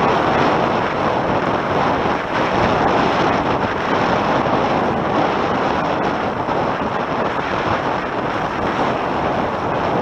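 Steady rush of wind buffeting the microphone, mixed with water rushing along the hulls of a Tornado catamaran sailing upwind.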